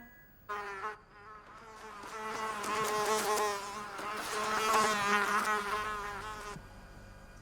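Cartoon sound effect of a buzzing insect: a wavering, pitched drone that swells louder twice, as if flying in close, then fades away.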